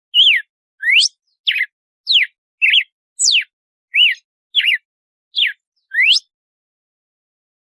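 Red-cowled cardinal (galo-de-campina) singing its 'açoite' song: a quick run of about a dozen clear whistled notes, some sliding down, some sliding up, some doubled, about two a second, stopping near the end.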